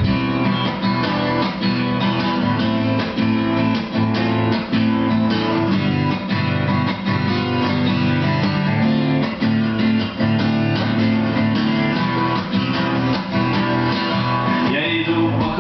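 Two acoustic guitars playing an instrumental break in a live song, strummed chords under a picked lead line. A man's singing voice comes back in near the end.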